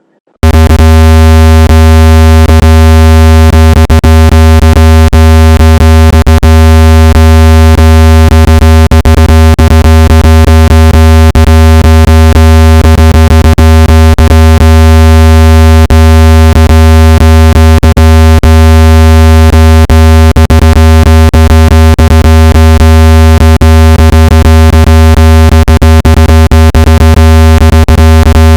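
Speaker water-ejection tone: a loud, steady, low-pitched electronic buzz with many overtones, starting abruptly about half a second in. It is meant to vibrate water and moisture out of a phone or earbud speaker.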